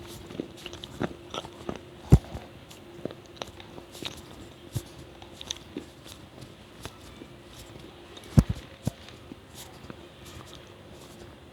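Close-miked ASMR mouth sounds: scattered small wet clicks and smacks of chewing, with two loud low gulps of swallowing, one about two seconds in and one past eight seconds.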